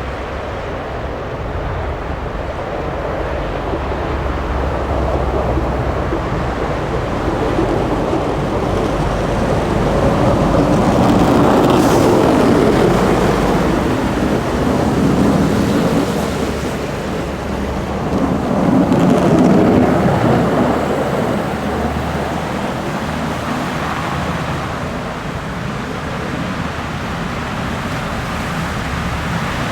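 Snow plow trucks driving past on a snowy road: a broad rushing noise of engines and tyres that swells as they pass, loudest about twelve and twenty seconds in.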